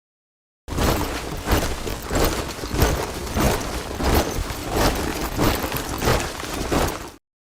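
Boots of a group of soldiers marching in step, a gritty crunch of footfalls landing together about every two-thirds of a second. It starts suddenly after a short silence and cuts off abruptly near the end.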